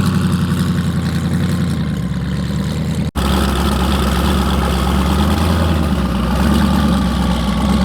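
Car engine idling with a fast, lumpy beat, cutting out for an instant a little over three seconds in and then carrying on.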